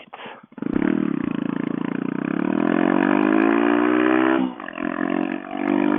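Honda Grom's single-cylinder engine pulling away under acceleration, its pitch climbing steadily, then dropping at a gear change about four and a half seconds in and running on steadily.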